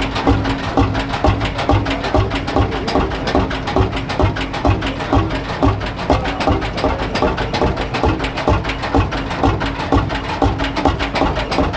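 Lanz Bulldog's single-cylinder two-stroke hot-bulb engine idling, a steady, rapid knocking beat.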